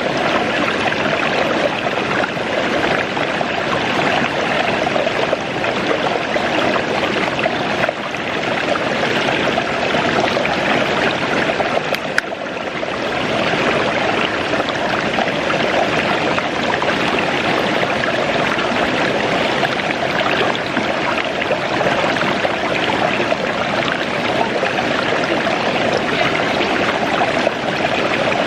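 Waterfall: loud, steady rushing water.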